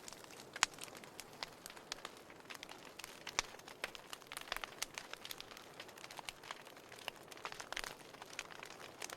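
Wood fire crackling in a fireplace: irregular sharp pops and snaps over a soft hiss, with the loudest pops just under a second in and a little past three seconds in.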